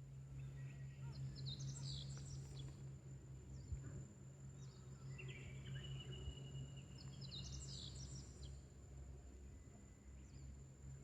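Wild birds singing in short chirping phrases, in two bouts about two and six seconds in, over a steady low hum and a thin, steady high-pitched tone.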